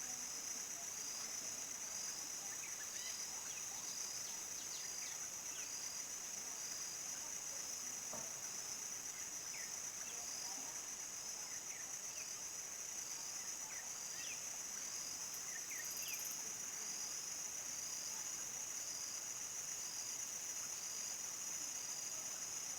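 A chorus of crickets trilling without a break, a steady high-pitched ringing. Faint short chirps at a lower pitch turn up here and there through it.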